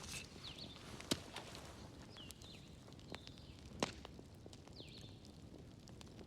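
Wood fire crackling in a fireplace: a low bed of burning noise with irregular sharp pops, two louder pops about a second in and just before four seconds. A few faint, high, falling whistles come and go.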